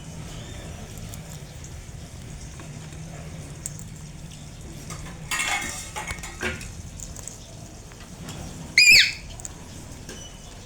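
An Alexandrine parrot gives one short, loud squawk with a bending pitch about nine seconds in. A few seconds earlier there is a brief clatter and a couple of clinks, over a low steady hum.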